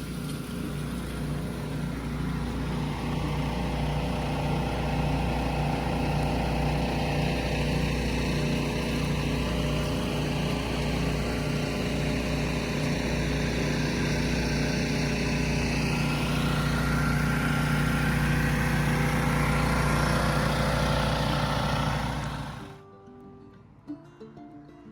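Small engine running steadily at one constant speed, with a hiss over it; the sound drops away abruptly near the end.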